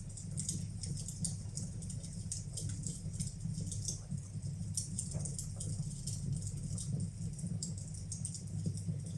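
Fireplace fire burning, with many small, irregular crackles and pops over a steady low rumble.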